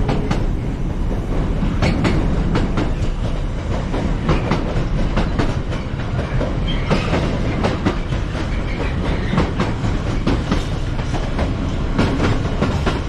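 Freightliner container freight train's wagons passing at speed, with a steady low rumble and wheels clicking over the rail joints.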